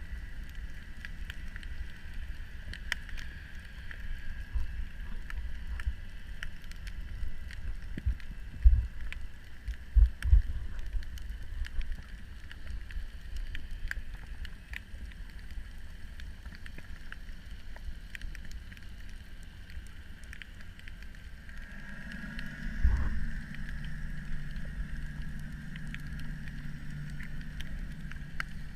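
Muffled underwater sound through a camera housing: a steady low rumble with a few dull knocks, and a steady low motor drone, like a boat engine heard through the water, that sets in about 22 seconds in.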